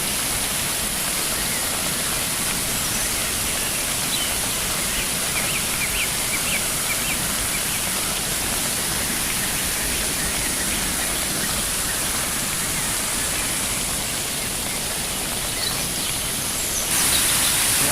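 Steady rush of floodwater in a rambla, a seasonal watercourse running after two or three days of heavy rain. It grows a little louder and brighter about a second before the end.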